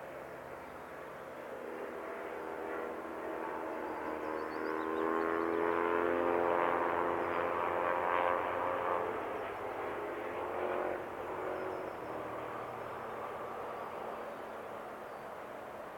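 Electric train passing on the line: rail rumble with a hum of several steady tones that grows louder, peaks about six to eight seconds in, then fades.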